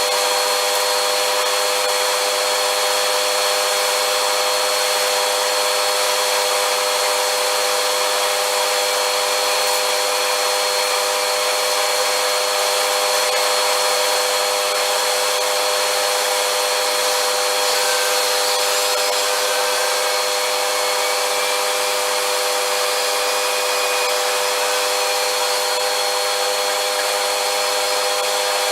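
Vacuum cleaner running steadily: a constant motor whine at one unchanging pitch over the rush of air.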